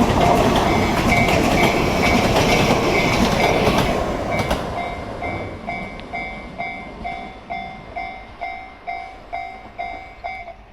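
An electric train passes a level crossing, its wheels clacking over the rail joints, and fades away about four to five seconds in. Over it, the crossing's electronic warning bell rings a steady two-tone ding about twice a second, stopping near the end.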